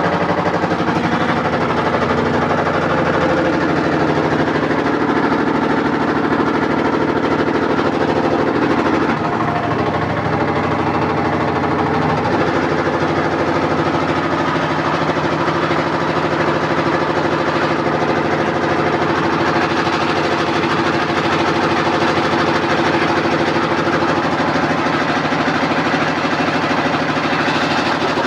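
Washing machine running with a loud, steady, fast mechanical rattle and vibration, which shifts briefly about ten seconds in.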